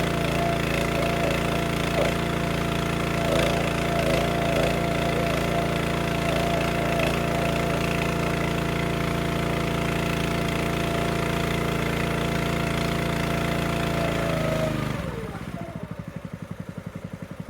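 Engine-driven wood splitter running steadily at working speed, then slowing about three-quarters of the way through to a lower idle with an even, slow pulsing beat.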